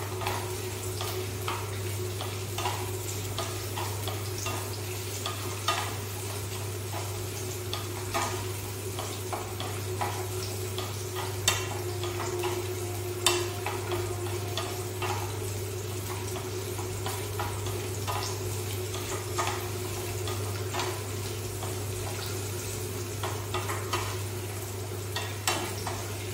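Garlic cloves and small onions sizzling in hot oil in a small pan while a wooden spatula stirs them, scraping and knocking against the pan now and then, over a steady low hum. The garlic is being sautéed until it changes colour.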